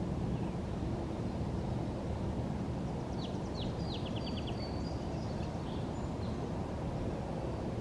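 Steady low outdoor background rumble, with a short songbird phrase about three seconds in: a few quick down-slurred notes, a rapid trill of about five notes, then a few high thin notes.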